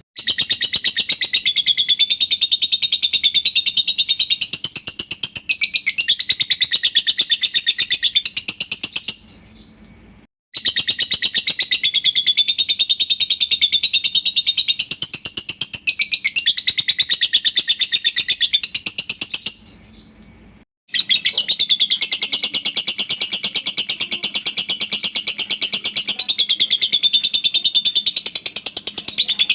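Lovebird ngekek: a long, fast chattering trill of rapidly repeated high notes, held for about nine seconds at a stretch and breaking off twice for about a second before starting again.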